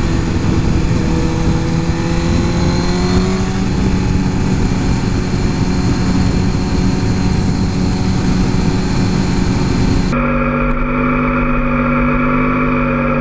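Suzuki GSX-R 1000 superbike's inline-four engine running under way, its note climbing over the first few seconds and then holding steady, with a loud rushing hiss over it. About ten seconds in the hiss cuts off abruptly, leaving a steady engine note.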